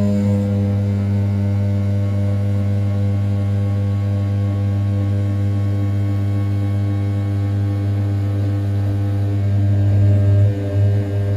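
A 500 W brushless spindle on an RZ420 desktop CNC mill, turning at 6000 rpm while its cutter takes a roughing cut around the outside of an A7075 aluminium block. It gives a steady low hum that swells and turns uneven near the end.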